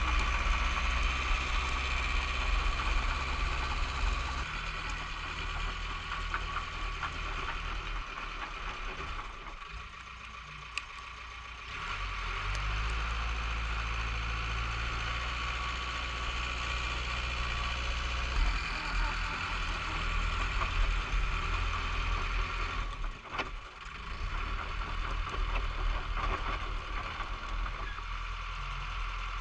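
Bulldozer diesel engine running under changing load while pushing snow, its engine note shifting several times, with a brief drop in level about ten seconds in and again near the end.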